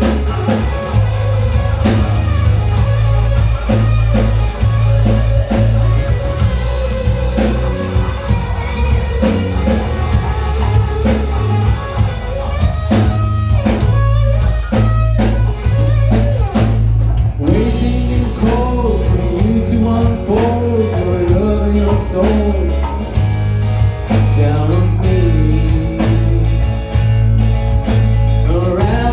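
A rock band playing live: electric guitar over heavy bass and a drum kit, with a sung or lead melody that comes through more clearly in the second half.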